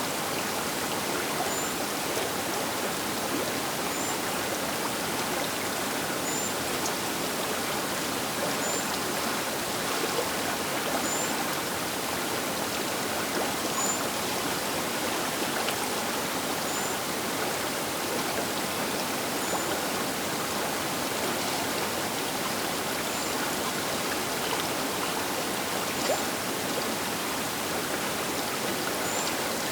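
Baker River flowing: a steady, even rush of moving water, with a short high chirp repeating about every two to three seconds.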